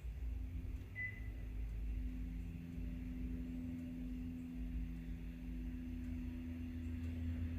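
A steady low hum made of a few even tones over a low rumble, with a brief faint high chirp about a second in.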